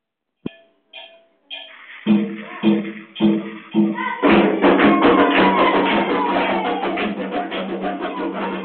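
Drums starting up: a few single strokes, then a beat of about two strokes a second, breaking into a fast, dense rhythm about four seconds in.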